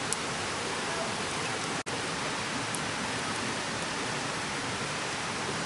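Steady rushing of a mountain stream: an even hiss with a few faint ticks, cutting out for an instant about two seconds in.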